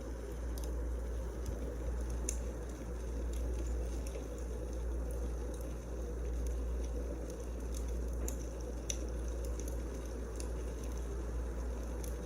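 Wood fire burning: a steady low rushing with scattered sharp crackles and pops at irregular intervals.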